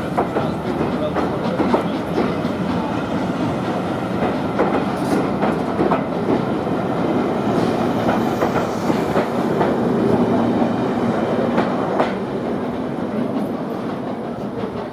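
A train running along the track, its wheels clicking and clattering over the rail joints in a steady rumble.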